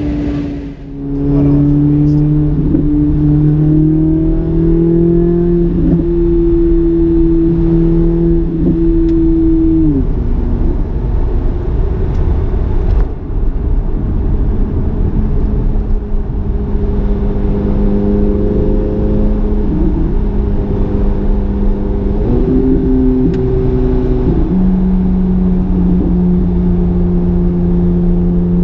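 C8 Corvette Z06's flat-plane-crank V8 and exhaust running at a steady cruise. The engine note holds its pitch for long stretches, drops sharply about ten seconds in, and steps up and then down again a little after twenty seconds, as with gear shifts.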